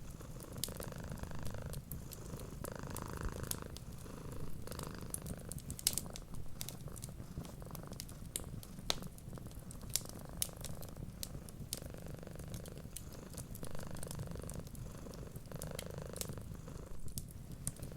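Domestic cat purring steadily, the purr swelling and fading with each breath every second or two. Wood fire crackles over it, with scattered sharp pops.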